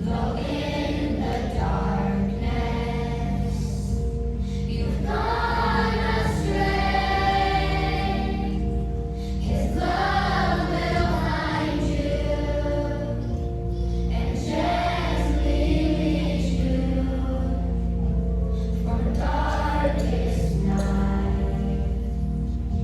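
A youth choir singing a song together over instrumental accompaniment, with sustained low notes beneath the voices.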